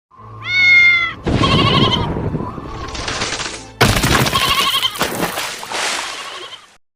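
Animal cries: a short high pitched call, then two long, wavering, strained cries, the second starting suddenly about four seconds in.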